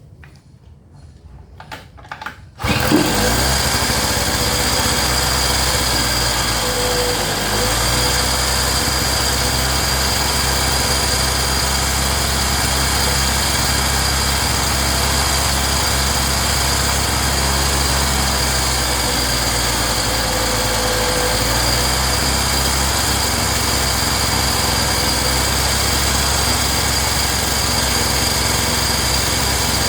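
A few short clicks and scrapes, then the small gasoline engine of an inverter generator catches about three seconds in and runs steadily.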